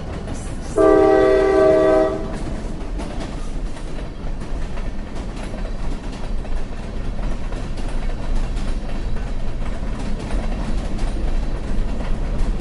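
A train horn sounds one loud blast of about a second and a half, near the start, over the steady rumble of the train running on the rails.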